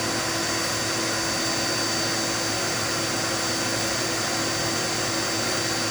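Dirt Devil Multi-Surface vacuum cleaner running steadily: an even motor and airflow noise with a low hum and a thin high whistle.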